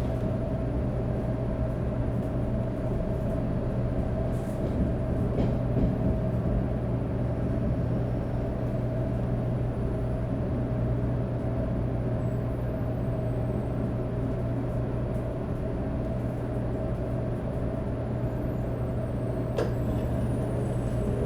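Shinkansen 500 series running, heard on board: a steady rumble with a steady whine from its Toshiba GTO-VVVF inverter traction motors. A single click comes near the end.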